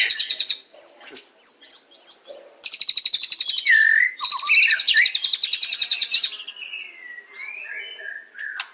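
White-rumped shama (murai batu) singing: fast high trills, then a run of about six short down-slurred notes, then more trills mixed with lower whistled notes. The song softens near the end.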